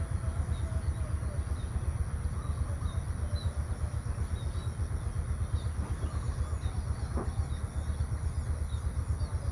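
Countryside morning ambience: small birds chirping repeatedly over a steady low rumble, with a constant high-pitched hiss above.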